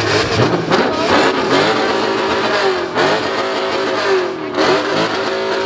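Car engine revving hard, its pitch climbing and dropping several times.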